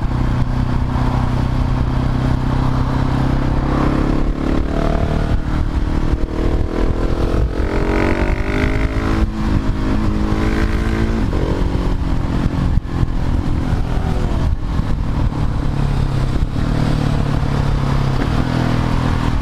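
Husqvarna 701 Supermoto's single-cylinder engine with a Leo Vince slip-on exhaust, ridden at a steady pitch, then revving up and down through the middle before settling again, over steady wind rush.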